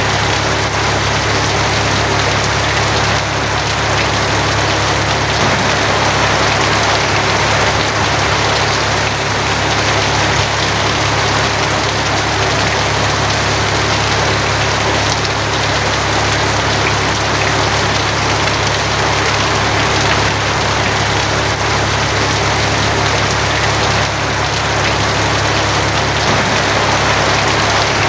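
Steady, dense rain drumming on a tin roof, with a constant low hum underneath.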